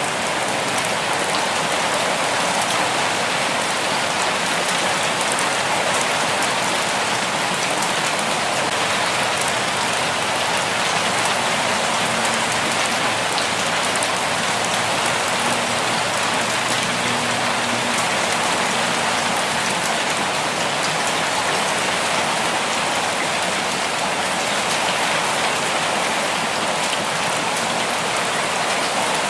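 Steady, even rainfall with drops pattering on surfaces.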